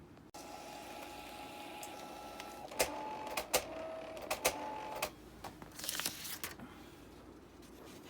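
Canon PIXUS iP90v inkjet printer running its mechanism: a motor whine starts just after the beginning, sharp clicks come in the middle as the whine shifts pitch, and a short hiss comes about six seconds in. The machine makes an abnormal squealing ('kyuru-kyuru') noise that the owner takes for a fault.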